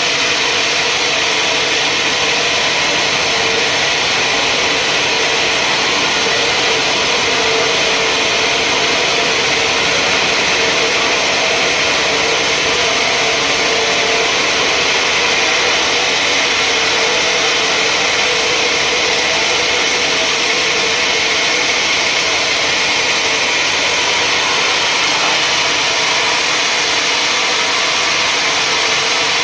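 Sawmill saw machinery running steadily and loudly: an even, unbroken noise with a constant hum underneath.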